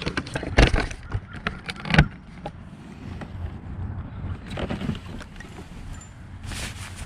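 Knocks and clatter of gear being handled on a fishing kayak, a quick run of them in the first two seconds with the loudest about two seconds in, followed by two softer rushing sounds.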